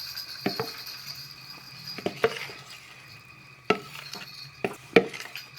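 A kitchen utensil clinking and tapping against kitchenware while cake batter is scraped out into a baking dish: a handful of sharp, separate knocks, with a pair near the start and more toward the end.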